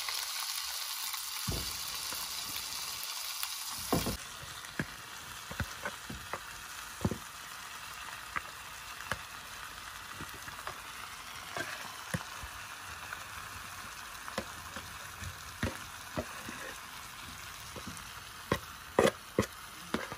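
Corn rounds and broccoli frying in oil in a pan: a steady sizzle. About four seconds in the sizzle drops to a quieter level, with scattered clicks and knocks through the rest and a few louder knocks near the end.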